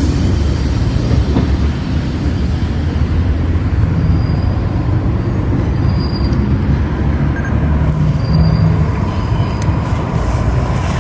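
A train running past with a steady heavy low rumble, and a few faint, brief high-pitched squeals from the wheels in the middle.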